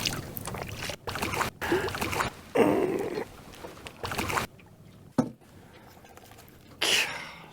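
Water splashing in several bursts as a hooked crappie is brought up beside the boat, followed by a sharp knock about five seconds in and one more short splash near the end.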